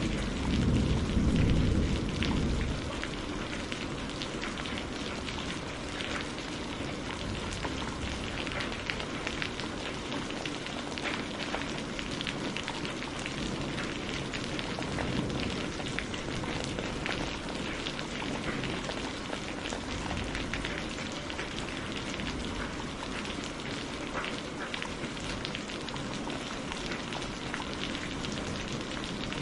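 Thunder rumbling and dying away over the first two or three seconds, then steady heavy rain with dense patter of drops.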